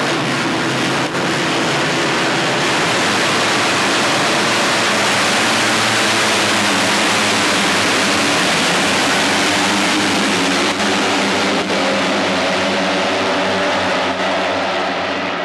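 Racing motorcycles with 250cc single-cylinder KTM engines running at high revs on a race circuit: a loud, steady din of engine noise, with individual engine notes standing out more clearly near the end.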